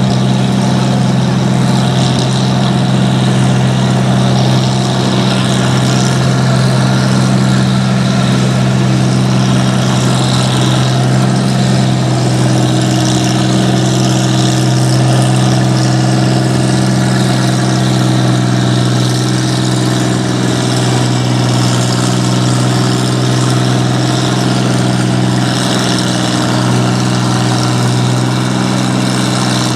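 Farm tractor engine idling steadily, a loud even rumble with no revving. A second steady engine tone joins about twelve seconds in.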